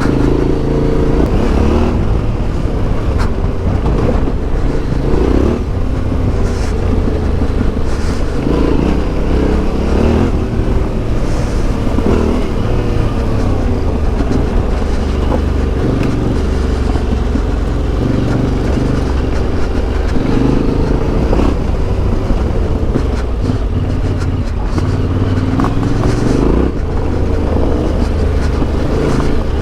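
Yamaha Ténéré 700's CP2 parallel-twin engine with an Akrapovic exhaust, ridden continuously, its revs rising and falling again and again through throttle changes and gear shifts.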